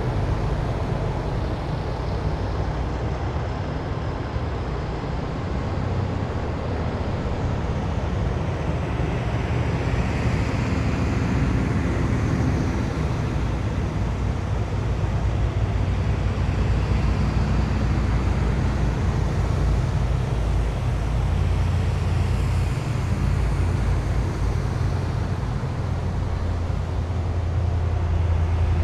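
A column of heavy military vehicles drives past in a steady low engine rumble. A faint whine rises and falls as each vehicle goes by, and the rumble swells a little near the end.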